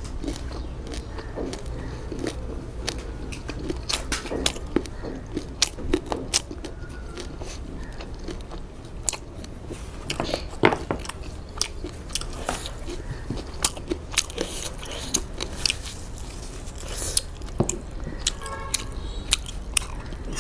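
A person biting and chewing food close to the microphone, with irregular wet mouth clicks and crunches.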